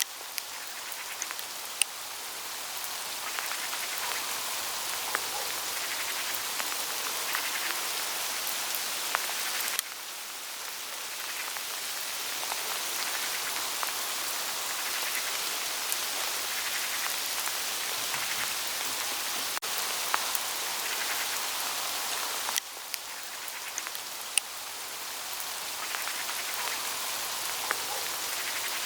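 Hail pattering steadily on the leaves of an autumn forest, a constant hiss dotted with sharp ticks from single hailstones, a few of them louder.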